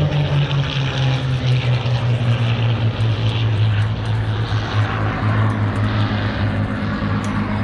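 P-51 Mustang's Merlin V-12 piston engine droning as the warbird flies overhead, its pitch shifting slowly.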